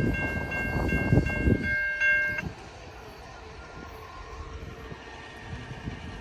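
A level crossing bell dinging rapidly over the loud rumble and wheel clatter of a passing freight or passenger train; both cut off abruptly about two and a half seconds in, leaving a fainter steady rumble of the receding train.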